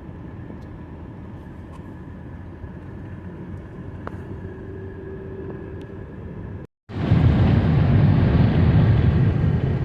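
Steady road rumble of a car driving. About seven seconds in it cuts out for a moment, then returns louder and rougher.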